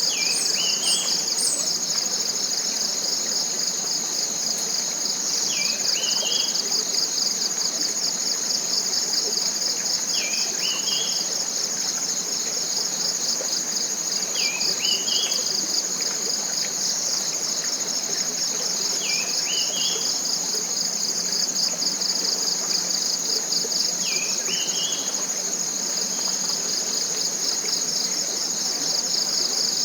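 Forest insects in a continuous, high, pulsing trill, with a bird repeating the same short call, dipping then rising, about every four and a half seconds. A few quick high bird chirps come right at the start.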